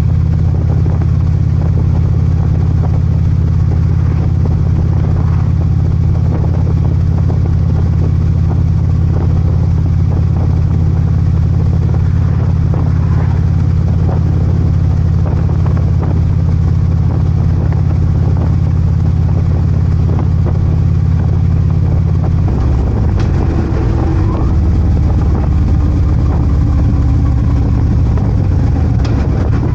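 Harley-Davidson Ultra Limited's V-twin running steadily while the motorcycle is under way, a loud low drone. About 22 seconds in the drone shifts and becomes uneven.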